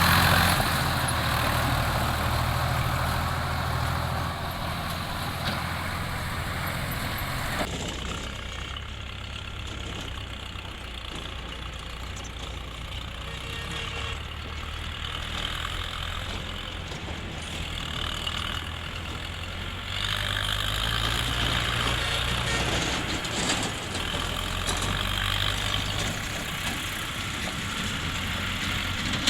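Diesel tractor engine running steadily at low speed. The sound changes abruptly about a quarter of the way in and again about two-thirds of the way in.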